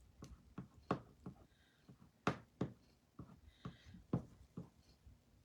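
Irregular light taps and clicks, about a dozen, from a squeegee working chalk paste over a reusable transfer on a chalkboard.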